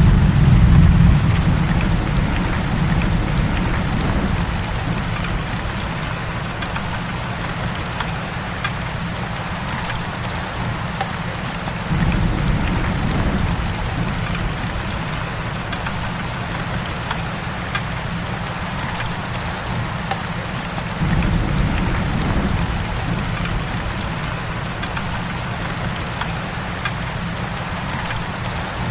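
Heavy rain falls steadily as a dense hiss with scattered individual drop ticks. A low rumble swells and fades three times: at the start, about twelve seconds in, and about twenty-one seconds in.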